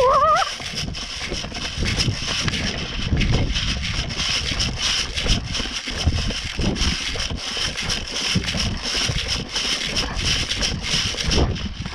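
Wind rumbling over the microphone of a person running, with uneven thuds and rustling from the footfalls and handling.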